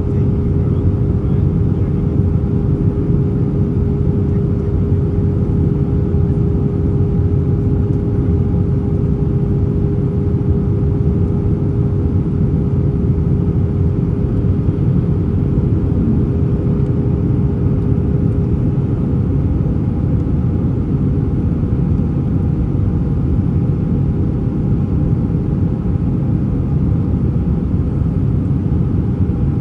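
Airbus A320 cabin noise in flight: a steady, loud rush of engines and airflow with a constant hum running through it.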